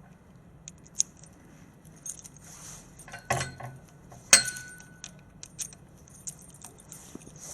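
Small metal objects jingling and clinking in scattered clicks, with a clatter about three seconds in and a sharp metallic clank about a second later that rings briefly.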